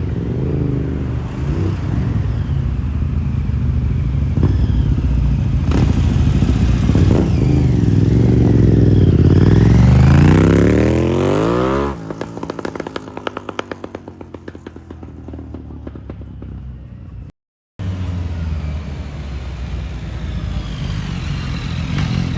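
Motorcycle engines revving, one climbing steeply in pitch to its loudest about ten seconds in before cutting off suddenly. A fast, even idle follows and fades, then steady engine running returns after a brief break.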